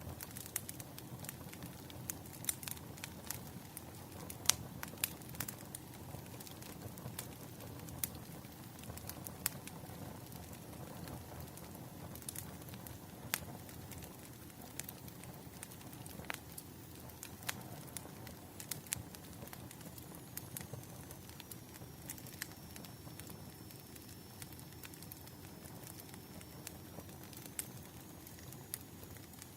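Wood fire crackling: irregular sharp pops and snaps over a steady low rush of burning logs.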